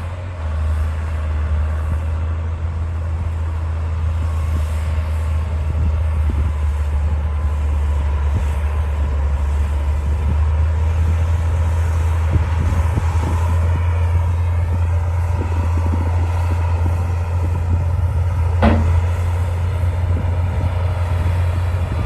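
D60 crawler bulldozer's diesel engine running steadily under load during clearing work, with one sharp metallic knock about three-quarters of the way through.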